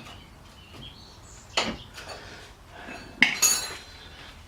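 Metal spanners clinking against each other and against a bolt while the right size is found: a quiet stretch, then a sharp clink about a second and a half in and a louder one about three seconds in.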